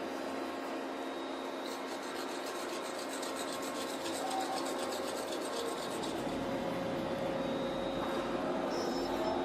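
Rhythmic rasping scrape, a tool or abrasive worked against a surface, over a steady mechanical hum. The scraping runs from about two seconds in until about six seconds in.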